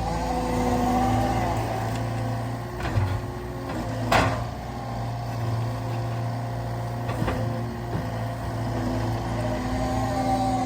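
Cat 299D2 skid steer's diesel engine running steadily under load, with a hydraulic whine. A loud, sharp knock about four seconds in and lighter knocks around it.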